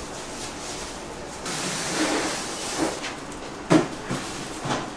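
A hiss lasting about a second and a half, followed by three separate knocks of kitchen work.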